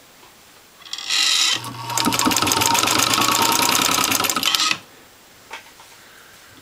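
Motorized 1922 Singer 66 sewing machine stitching through several layers of nylon with heavy upholstery thread. The motor starts about a second in, then the needle and mechanism run a fast, even clatter of stitches over a steady motor hum for about three seconds, stopping abruptly. A few faint clicks follow.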